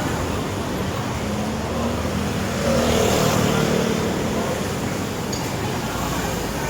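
Street traffic noise, with a motor vehicle passing, louder from about two and a half to four and a half seconds in.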